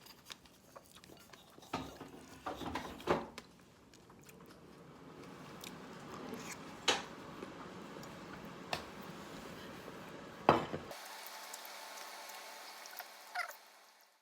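Scattered light clicks and knocks from objects being handled, with a few louder knocks, over a faint steady hiss.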